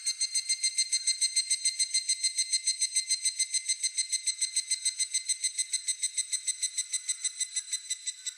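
Higurashi (evening cicada) singing its 'kana-kana-kana' call: a long run of rapid, evenly pulsed ringing notes, about nine a second, that peaks about a second in, slowly fades and breaks off near the end.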